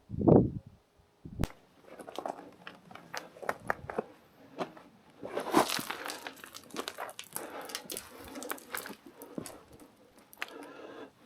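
Footsteps crunching and scraping on loose rock and scree, with many irregular small clicks of stones. A brief loud low rush comes at the very start.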